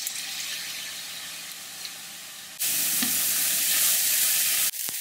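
Diced red onion, spring onions and garlic sizzling in hot oil in a frying pan while a spatula stirs them. The sizzle gets suddenly louder about halfway through, and a few light clicks come near the end.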